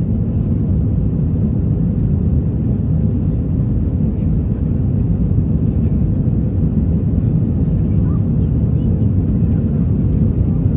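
Steady low rumble of an Airbus A321 airliner heard from inside the economy cabin: engine and airflow noise with no distinct events.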